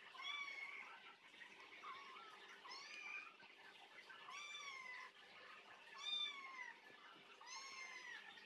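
A cat meowing again and again: about six high-pitched calls, each rising and then falling in pitch, a second or two apart.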